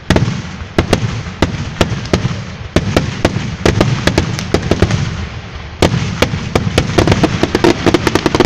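Fireworks finale barrage: sharp shell bursts several a second over a constant low rumble, coming faster and closer together near the end.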